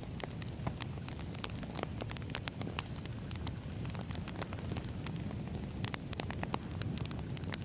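Wood fire burning: a steady low rumble of flames with irregular sharp crackles and pops of burning logs.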